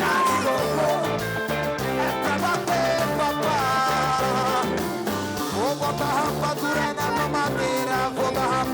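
Live band music with a ska-style upbeat rhythm: a steady bass line under sustained horn-like melodic lines, played without lead vocals.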